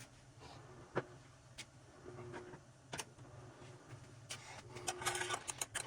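Hand tools clinking and rattling as they are rummaged through: a few sharp separate clicks, then a quick run of rattling clinks near the end, over a steady low hum.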